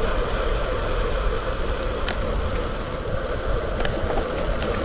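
Wind rushing over a bike-mounted action camera and road tyres rolling on a fast downhill, steady throughout, with a couple of faint ticks.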